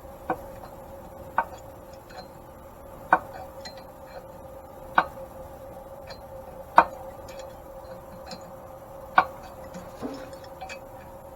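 Hand tap cutting threads into a cast-iron mill frame, giving sharp metallic clicks every one to two seconds, with fainter ticks between them, as the tap turns and bites.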